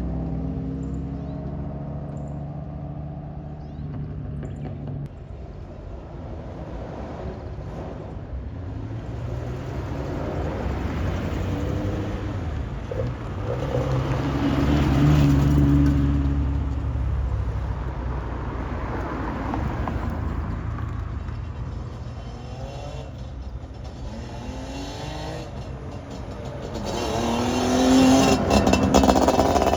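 Classic cars driving past one after another, their engines revving up and falling away as each one passes. The loudest passes come about halfway through and near the end.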